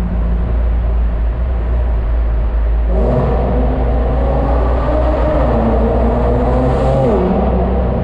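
Car engine and exhaust idling, then revved about three seconds in, the pitch climbing slowly and held before dropping back to idle about seven seconds in.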